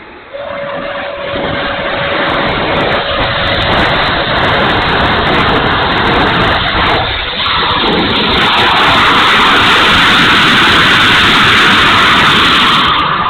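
Electric ducted fan of a 70 mm RC F-16 jet running in flight, a loud rushing whine mixed with wind on the microphone. It comes in suddenly, grows louder, is loudest over the last few seconds and fades just before the end.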